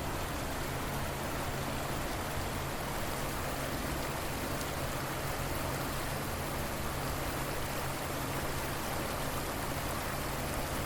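River water flowing steadily: an even rushing hiss that neither pauses nor changes.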